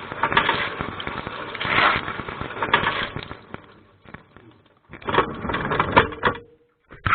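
Dishwasher spray-arm water jets splashing over the camera inside the wash tub, a crackling spatter that swells and fades in surges. It dies down about four seconds in, returns in a burst and stops about six and a half seconds in, with one short splash near the end.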